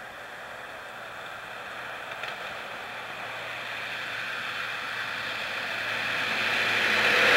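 Diesel locomotive-hauled train approaching, its running sound growing steadily louder over a steady hiss.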